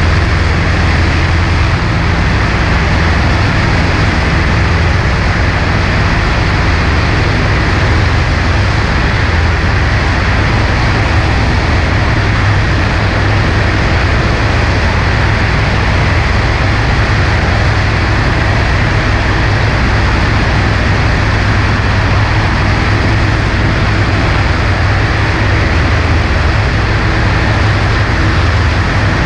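Cessna 140A's engine and propeller giving a steady, unchanging drone, mixed with heavy rushing wind noise over the microphone.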